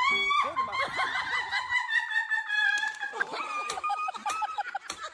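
A long, high-pitched cry held for about three seconds, slowly falling in pitch, then breaking into a lower, choppier sound with quick clicks.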